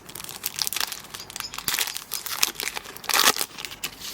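Pokémon card booster pack's foil wrapper being crinkled and torn open, in dense irregular crackles with a louder burst about three seconds in.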